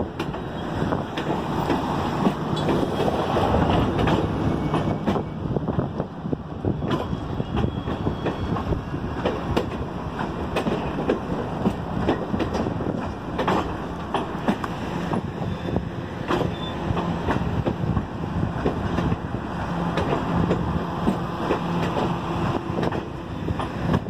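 Ringling Brothers circus train's railroad cars rolling past at close range, a steady rumble broken by the irregular clicks of wheels over rail joints.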